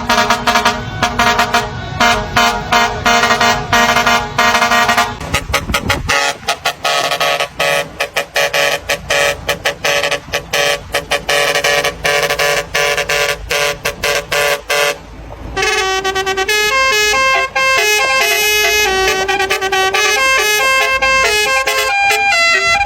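Basuri V8 multi-tone musical truck horn sounding. For about fifteen seconds it pulses in rapid stuttering honks, then it plays a tune of separate stepped notes.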